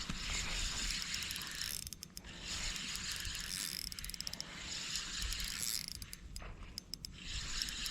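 Spinning fishing reel being cranked to wind in line, a whirring of the reel's gears in several spells of a second or two with short pauses between them.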